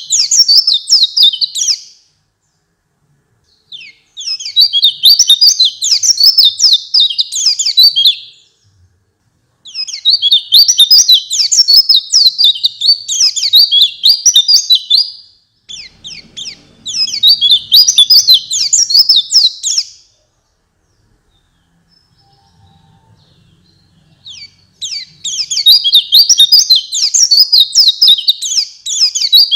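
White-eye (pleci) singing: rapid, high-pitched twittering phrases lasting two to five seconds each, with short pauses between, five bouts in all.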